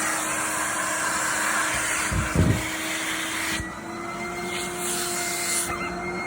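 Vacuum cleaner running with a steady motor whine and air rush, and a low thump about two and a half seconds in. About three and a half seconds in, the rushing air drops away and the whine rises slightly in pitch.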